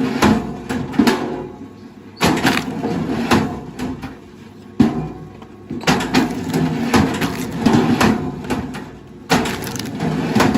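Wood cracking and splintering in repeated loud bursts as it is crushed and broken apart by heavy machinery. A machine engine hums steadily underneath.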